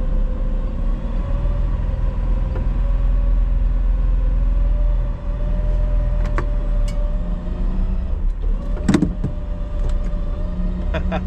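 Vehicle engine running steadily with a low rumble, with a sharp clunk about nine seconds in and a few lighter clicks.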